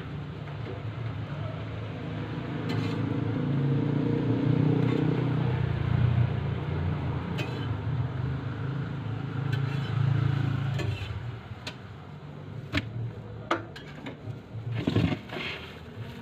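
Low traffic rumble that swells and then fades over several seconds. Near the end come a run of sharp clinks and knocks, like utensils on metal.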